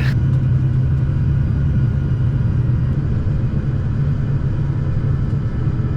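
Steady low drone of a Cessna 340's twin piston engines at low power, heard in the cabin during the landing rollout as the plane slows down.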